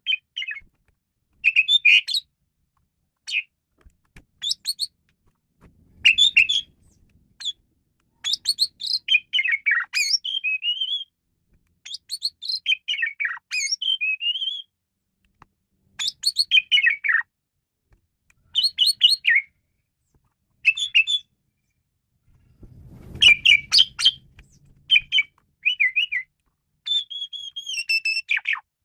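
Male Asian pied starling (jalak suren) singing a varied song: phrases of sharp chirps, rattles and sliding whistled notes, each a second or two long with short pauses between, and a longer held whistle near the end.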